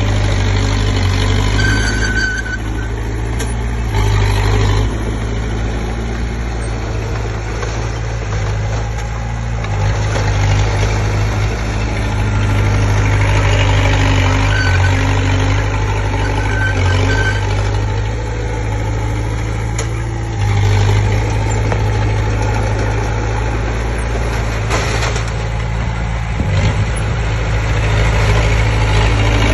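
Komatsu D20P bulldozer's diesel engine running steadily, its level rising and falling every few seconds as the load changes, with a few brief high squeaks.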